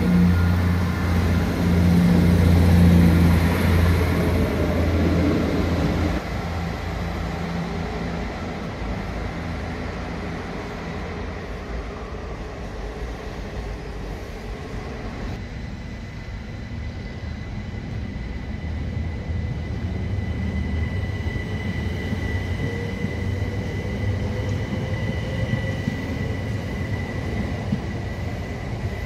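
GWR diesel multiple unit's engines drone loudly as it pulls out, then fall away after about six seconds. Later a Southern Class 377 Electrostar electric train approaches, its rumble and a steady high whine growing louder toward the end.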